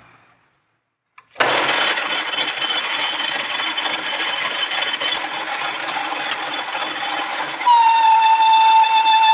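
A metal lathe machining noise starts abruptly about a second and a half in, a steady noisy whir. Near the end a strong, steady, high-pitched squeal with overtones joins it.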